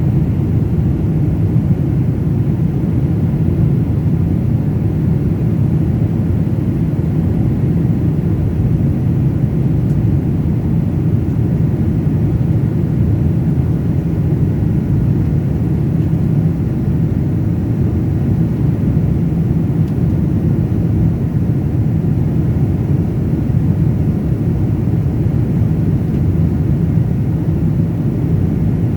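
Airliner cabin noise in flight: a steady, even low rumble of engines and airflow, heard from inside the cabin.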